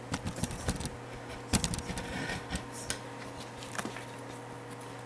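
Scattered clicks and knocks of small parts and hand tools being handled on a workbench: a quick cluster in the first second, the loudest knock about a second and a half in, and a few lighter ones later, over a steady low electrical hum.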